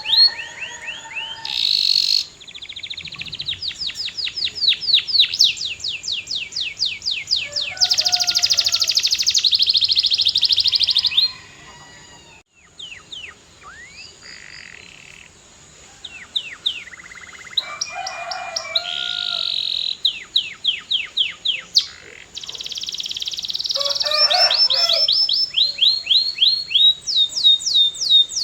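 Canary singing a long, high-pitched song of rapid trills: runs of quickly repeated, downward-sweeping notes that change speed and pitch from phrase to phrase. The song drops quieter for a few seconds near the middle, then builds back to full strength.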